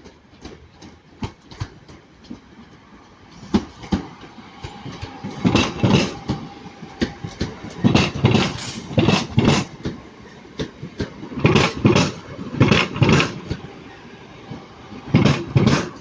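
Class 323 electric multiple unit's wheels clattering over the track as it pulls out, a run of heavy knocks, mostly in pairs, that gets louder about four seconds in: really slapping the rail.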